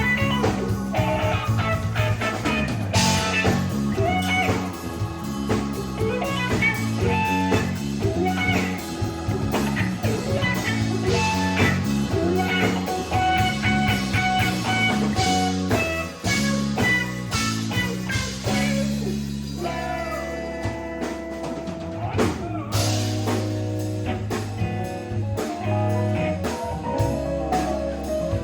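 Rock band playing an instrumental passage: electric guitar lines over bass and drums.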